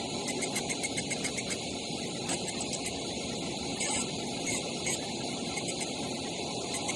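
Fiber laser engraving machine running while it marks pigeon rings: a steady hiss with many quick, irregular ticks and a faint steady high tone.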